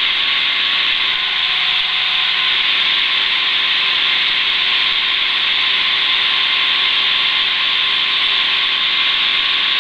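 Steady in-flight noise of a Schweizer 300CBi light helicopter, its piston engine and rotors making an even rushing hiss with a few faint steady tones running through it.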